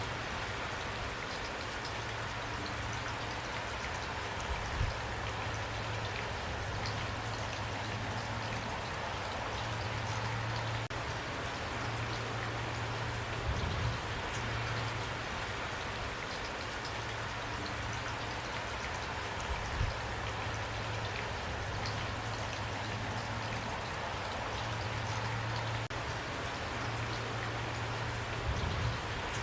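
Steady rainfall pattering on a surface, with a few louder single drops or knocks standing out about five, fourteen, twenty and twenty-eight seconds in.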